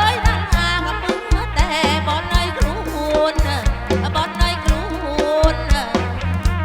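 Live kantrum folk music played through a PA system: a steady, driving drum beat under a sliding, ornamented melody line.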